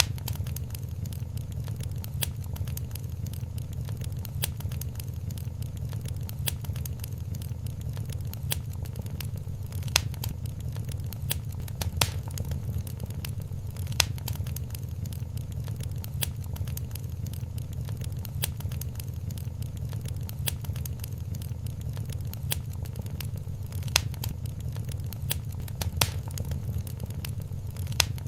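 Wood fire crackling in a fireplace: a steady low rumble of the flames with constant small snaps and several louder pops, three of them about two seconds apart near the middle and two more near the end.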